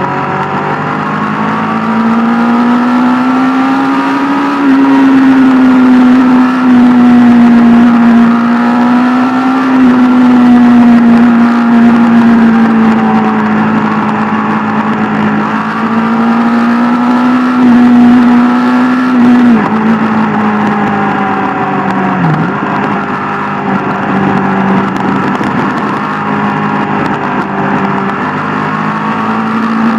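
Sport motorcycle engine running at steady high revs under way, its pitch drifting gently up and down with the throttle. The revs drop briefly about twenty-two seconds in, then pick back up.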